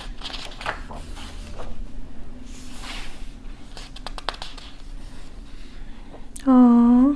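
Pages of a printed book being turned by hand and paper handled: several soft rustling sweeps with a few light taps and clicks. Near the end a loud, drawn-out 'aww' in a woman's voice.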